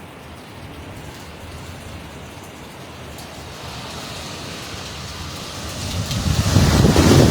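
Hurricane wind and rain: a steady rush of noise that swells into a strong gust about six seconds in, buffeting the microphone.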